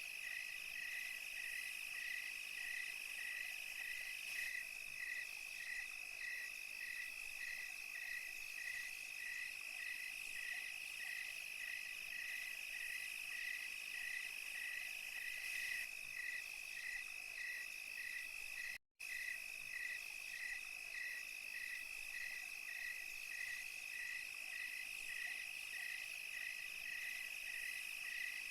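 Night insect chorus of crickets: a steady high trill, with a chirp repeating about twice a second just below it. The sound drops out completely for a split second about two-thirds of the way through.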